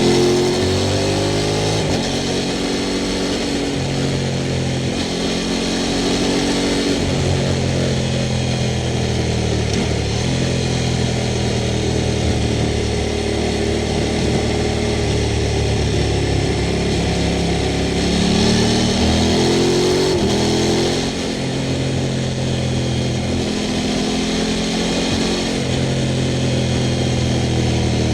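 Sport motorcycle engine running under way, its note holding steady and then stepping up and down, with a rising rev about two-thirds through. A steady hiss of wind and road noise sits underneath.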